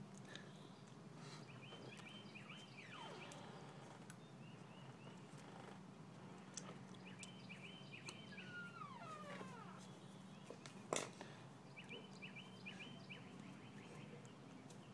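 Faint bird chirps over a quiet background: three short runs of rapid, high chirps a few seconds apart, with falling whistled notes. There is a single sharp click about eleven seconds in.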